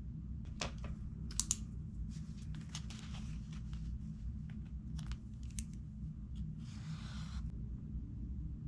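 Paper rustling as book pages are handled: several short crisp rustles and clicks, then a longer swish of a page being turned about seven seconds in, over a steady low hum.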